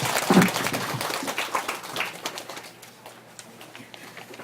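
Audience clapping that dies away over the first two or three seconds, with a brief voice about half a second in.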